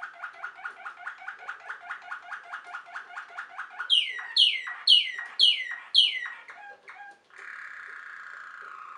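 Waterslager (Malinois) song canary singing. It opens with a fast run of repeated notes, about seven a second, then gives five loud whistles that each sweep downward, and after about seven seconds it holds a long, slowly falling rolled note.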